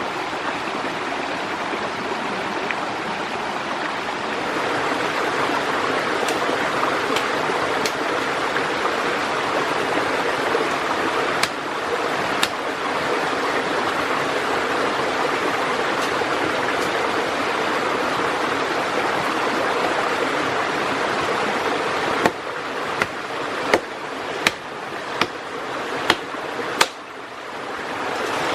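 Steady rushing of running water, like a stream. Near the end come about seven sharp knocks, spaced roughly a second apart, while the water sound dips.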